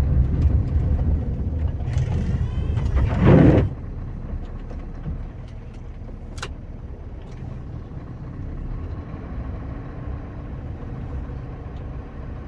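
Scania R560 truck's V8 diesel engine running hard, with a rising surge about three seconds in, then dropping back to a quieter, steady run. One sharp click about six seconds in.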